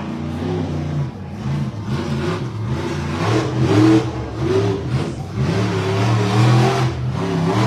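Monster truck engine revving hard, its pitch rising and falling again and again as the throttle is worked during a freestyle run.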